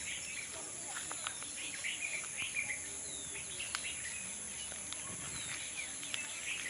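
Birds chirping in many short, quick notes over a steady high insect drone, with a few sharp clicks.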